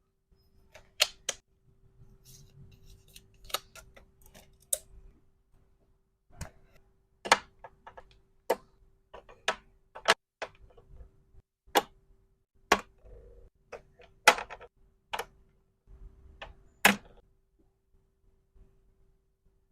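Irregular sharp clicks and taps of small hard plastic or resin items being handled and set down, about fifteen in all, with soft rustling between them. A faint steady hum runs underneath.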